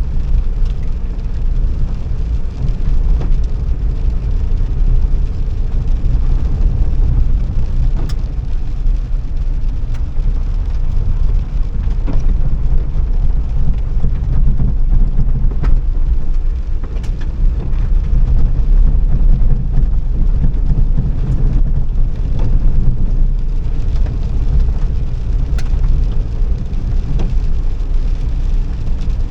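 Car being driven: a steady low rumble of engine and road noise, with a few sharp ticks scattered through it.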